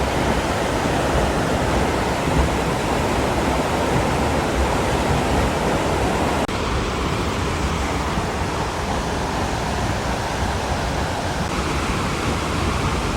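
Rushing water of the High Falls on the Pigeon River: a steady roar of falling water that changes abruptly about six and a half seconds in, becoming a little duller.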